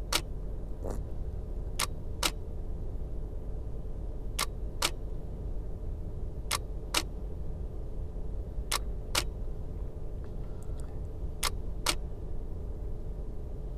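Nikon DSLR shutter firing for a run of slow exposures: paired clicks, opening and closing a little under half a second apart, repeated about every two seconds. A steady low rumble runs underneath.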